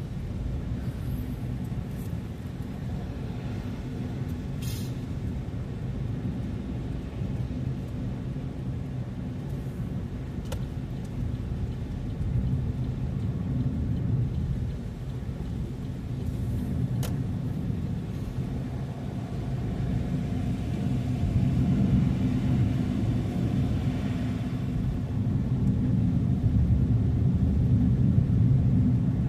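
Car driving: a steady low rumble of engine and road noise that grows a little louder over the last ten seconds, with a few faint ticks.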